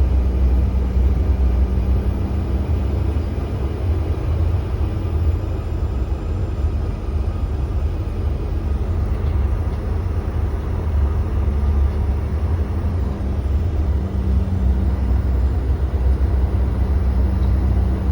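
Cabin noise inside a CRJ-900 regional jet taxiing: its two rear-mounted General Electric CF34 turbofans running at low taxi power, heard as a steady low rumble with a constant hum.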